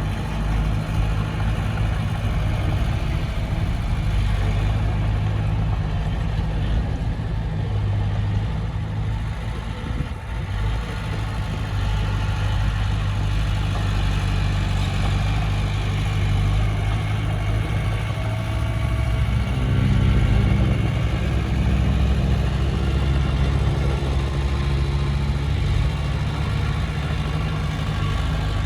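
Komatsu D20P bulldozer's diesel engine running steadily, then taking on more throttle about two-thirds of the way through, its pitch rising and the sound growing louder.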